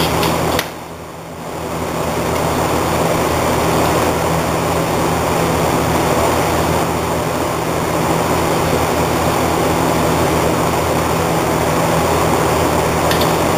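A steady mechanical drone with a low hum, which drops away briefly about a second in and then comes back.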